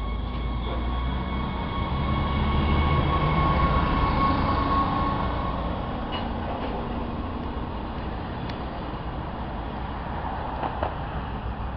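Stadler GTW diesel-electric light-rail railcar pulling away from the platform: a low engine rumble with a faint steady whine builds to its loudest about four seconds in as the car passes, then fades as it moves off. A few faint clicks come from the wheels.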